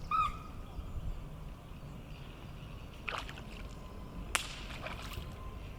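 Outdoor lakeside ambience with a steady low rumble, a short high chirp just after the start and two brief sharp splashy noises about three and four and a half seconds in, while a hooked fish is being played on a float rod.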